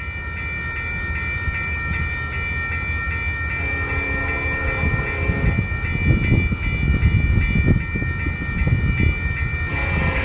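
Diesel freight train led by a Union Pacific SD70ACe locomotive approaching with its air horn held in one long chord. The rumble of the engines and wheels grows louder as it nears, with heavier low thumps in the middle of the passage.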